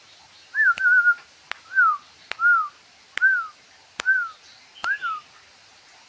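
Zebra dove cooing: a run of about six short, clear notes roughly a second apart, each bending up and then sliding down, with sharp clicks between the notes.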